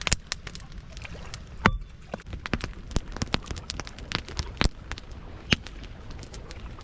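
Wood campfire crackling: irregular sharp pops and clicks, several a second, with a few louder snaps.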